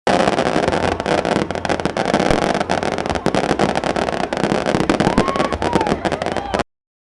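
Fireworks and firecrackers going off in a dense, rapid crackle over a steady rushing noise, with a short whistle that rises and falls about five seconds in.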